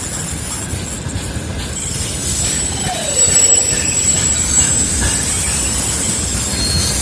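Freight train wagons rolling by, their steel wheels squealing in high, steady whistling tones over a continuous low rumble of wheels on rail.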